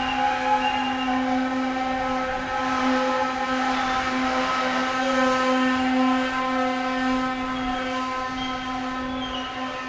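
Freight train of biomass hopper wagons rolling past, with a steady pitched hum and higher ringing tones over the rumble of the wheels, fading slightly toward the end.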